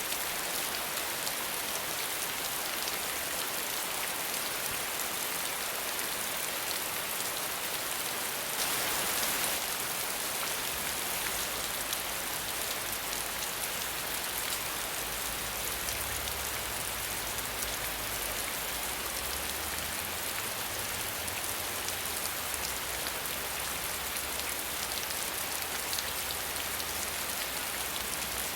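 Steady rain falling, an even hiss of drops with a brief louder swell about a third of the way in. From then on a low rumble sits underneath.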